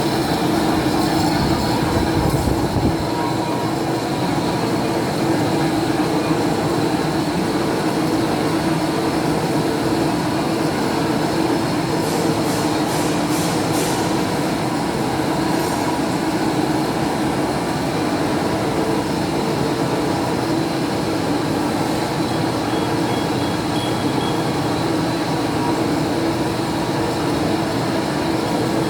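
Machine-shop machinery running steadily while pump parts are machined, a continuous hum with a few light ticks a little before the middle; the deepest rumble drops away about three seconds in.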